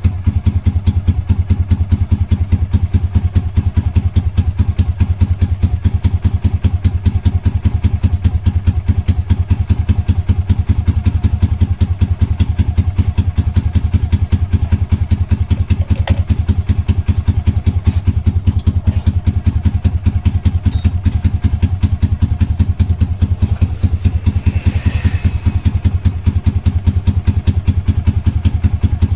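Honda GB250's air-cooled single-cylinder four-stroke engine idling steadily, a fast even exhaust beat that neither rises nor falls.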